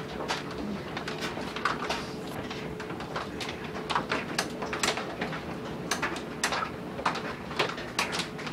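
Hailstones striking hard surfaces in irregular sharp clicks and knocks, several a second, over a steady hiss of falling hail.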